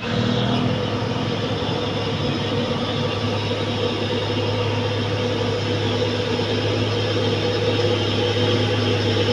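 Old truck's engine running steadily at a constant pitch, without revving.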